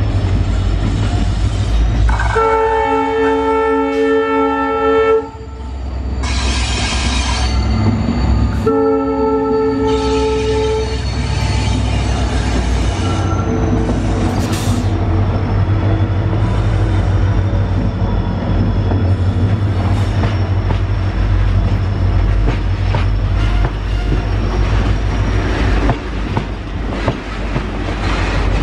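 Two long blasts of a diesel locomotive's multi-note horn, about two seconds and nine seconds in, over the heavy rumble of diesel locomotives passing close by. Then a freight train hauled by WDG-4D and WDG-4 diesels rolls past, its wagons rumbling with a steady clickety-clack of wheels over the rail joints.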